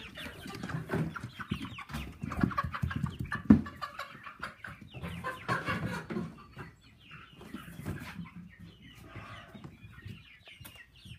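Chickens clucking and squawking while being caught and moved into a box, with knocks and rattles of the cage and box; one sharp knock about three and a half seconds in is the loudest sound.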